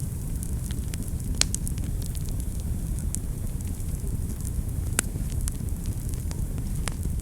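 Wood fire burning in a fireplace: a steady low rumble with scattered crackles and sharp pops, the loudest about a second and a half in and again about five seconds in.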